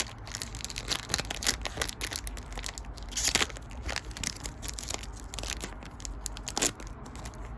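A foil Pokémon booster pack wrapper being torn open and crinkled in the hands: a dense, irregular run of sharp crackles.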